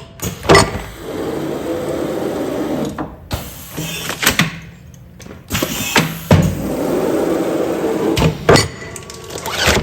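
Automatic food-container film-sealing machine working through repeated sealing cycles: sharp clunks, then a few seconds of steady mechanical running, then more clunks. The cycle comes round about every five seconds, twice here.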